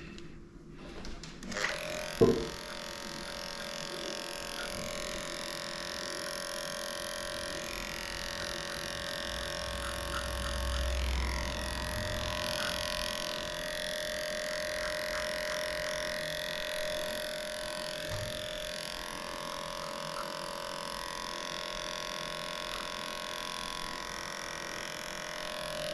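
Electric grooming clippers switched on with a click about two seconds in, then running steadily with a humming whine.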